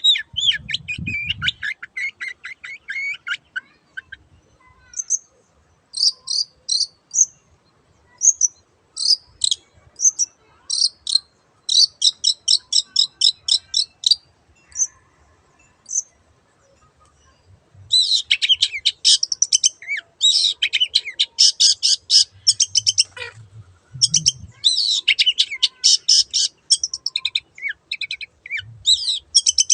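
Long-tailed shrike (cendet) singing: fast chattering runs of short, high repeated notes in bursts, broken by short pauses. A couple of brief low thuds come near the start and about three-quarters of the way through.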